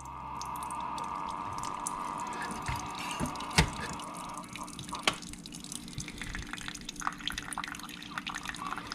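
Water running steadily for the first few seconds. Then two sharp clicks, and a scatter of small taps and clicks.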